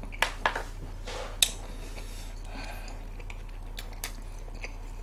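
Close-up eating noises: a handful of sharp mouth clicks and soft crunches as a large rice-cake-sheet wrap is bitten and chewed, the sharpest click about one and a half seconds in.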